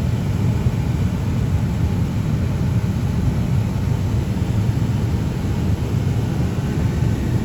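Steady low rumble of a vehicle driving, its engine and tyres running over rough ground.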